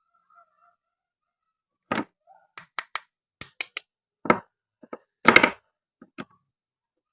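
A series of sharp clicks and knocks of hard toy pieces: a toy knife and wooden and plastic play fruit being cut and set down on a cutting board. The knocks come singly and in quick runs of two or three, with a louder, slightly longer one about five seconds in.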